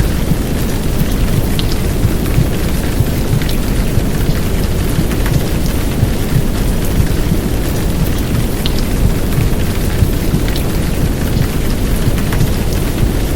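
Steady heavy downpour of rain mixed with a deep, even womb-sound rumble, with scattered sharp drop ticks over it.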